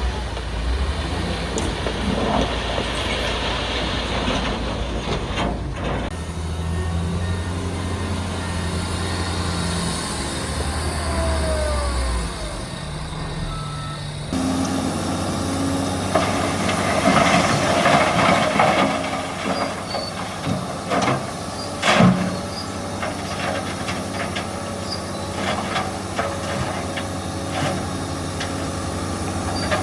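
Diesel engines of heavy earthmoving machinery running steadily, the engine note changing abruptly twice. Metal clanks and knocks come through in the second half, with one loud bang about two-thirds of the way through.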